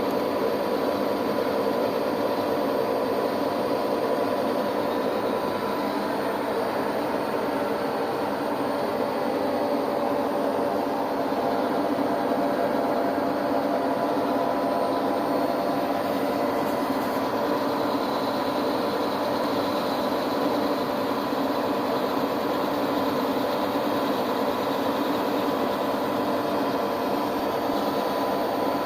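A workshop machine tool's electric motor running at a steady hum, with several fixed tones and no change in speed.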